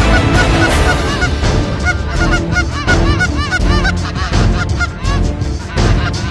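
Goose honking: a dense, continuous run of short, overlapping arched honks, over a heavy low rumble of wind on the microphone.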